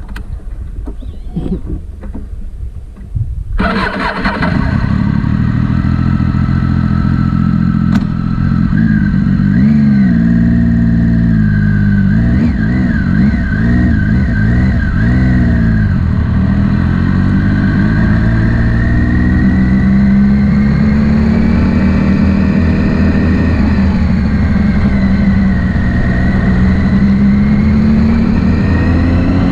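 Motorcycle engine running under way, coming in suddenly about three and a half seconds in. Its pitch wavers up and down for a few seconds, then holds fairly steady with slow rises and falls as it speeds up and slows.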